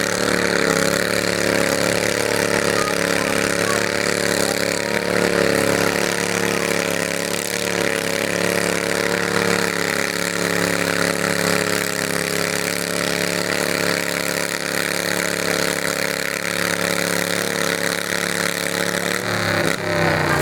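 Garden tractor engine running steadily at an even pitch, rising slightly at the start, with the note shifting and breaking up near the end.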